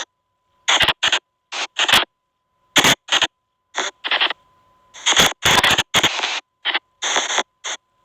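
SP White Noise Box spirit-box app putting out choppy white noise: a dozen or so short bursts of hiss, each a fraction of a second, separated by dead-silent gaps, with a faint steady high tone underneath. This is the chopped noise in which the listener tries to hear spirit voices answering a question.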